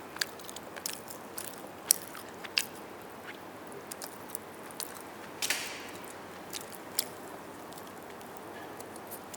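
Close-miked chewing and biting of roast chicken: scattered wet clicks and smacks from the mouth, with a louder, longer one about five and a half seconds in.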